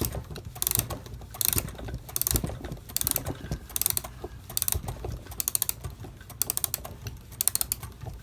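Ratchet click of a Seth Thomas 89C clock movement clicking over the ratchet wheel as the time-side mainspring is wound. It comes in short runs of quick clicks, one run per turn of the winder, repeating about once a second.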